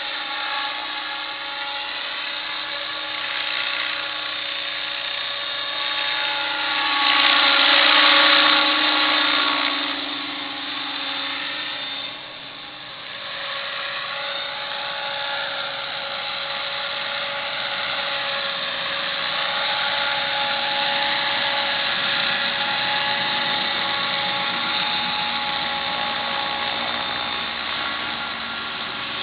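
Electric 50-size RC helicopter with metal Esmart mechanics in flight: a steady motor and gear whine with several held tones under the main rotor's noise. It grows louder for a few seconds about a quarter of the way through and drops off briefly just before the middle.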